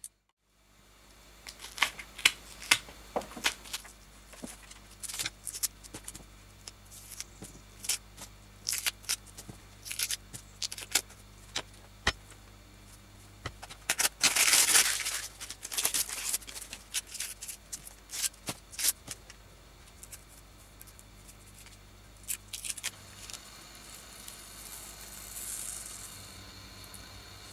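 Irregular sharp clicks and taps of small parts being handled, with one noisy burst lasting about a second around halfway through.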